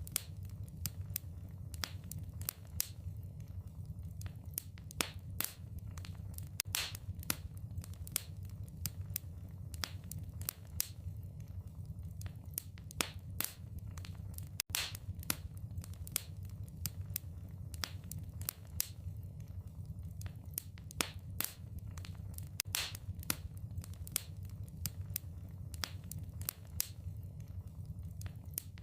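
Wood fire in a fireplace crackling and popping in quick, irregular snaps over a low steady rumble, with a momentary gap about halfway through.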